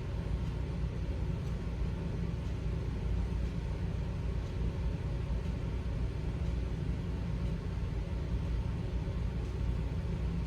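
Steady low rumble with a light hiss over it, unchanging throughout: continuous background noise with no speech.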